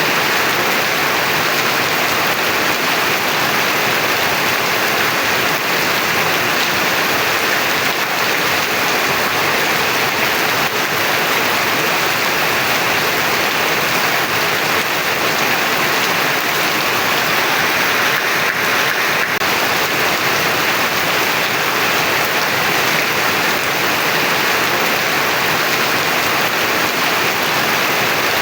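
Heavy rain falling in a steady, dense downpour, an even hiss with no let-up.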